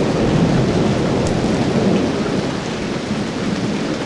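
Rolling thunder rumbling over steady rain, the rumble easing off a little in the second half.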